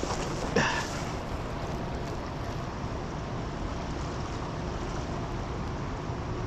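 Steady rush of wind and moving water, with one short swish about half a second in.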